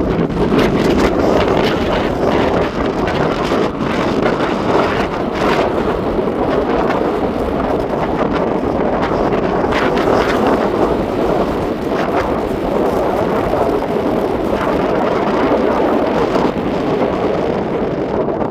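Loud, steady rushing noise of wind buffeting the microphone, with short gusty flutters throughout.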